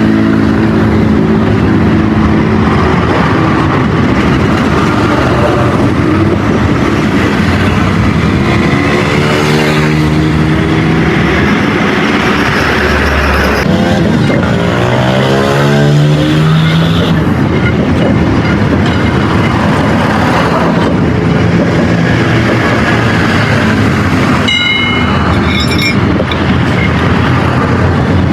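Motor-vehicle engines running close by in continuous traffic, their pitch rising and falling as vehicles pass, with a short high tone near the end.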